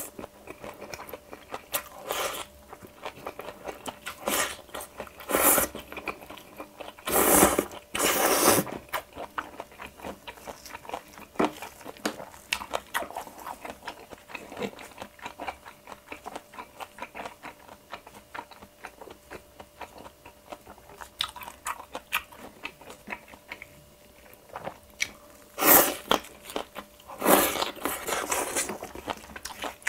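Close-miked chewing of a mouthful of bibimbap: wet smacking and biting sounds with many small clicks. There are louder noisy bursts about seven seconds in and again near the end.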